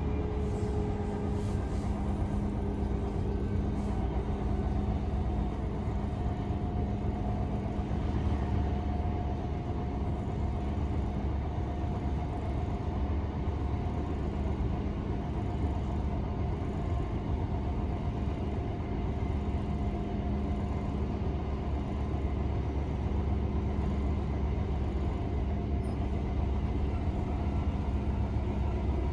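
c2c electric passenger train running at speed, heard from inside the carriage: a steady rumble of wheels on the track with a steady hum over it.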